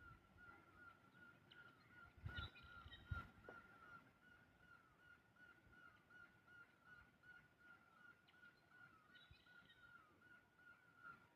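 Faint bird calling: a short note repeated over and over, about three times a second. Two low thumps come about two and three seconds in.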